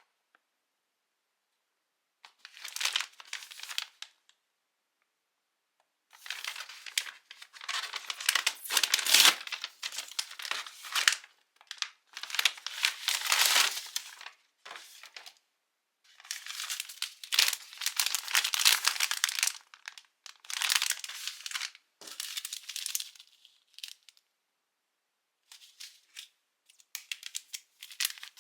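Instant-food packaging being crinkled and torn open by hand, in a series of rustling bouts a second to several seconds long with short pauses between them.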